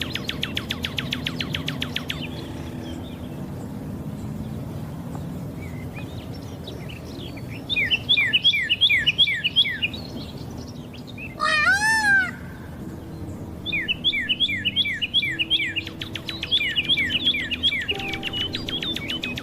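Birds singing. A fast trill opens, then bouts of quick, repeated down-slurred whistled notes follow. Midway comes one short, arching call with several overtones.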